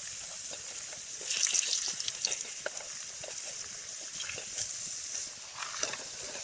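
Sizzling and crackling over a campfire: a steady hiss with many small pops, growing busier for a moment about a second and a half in.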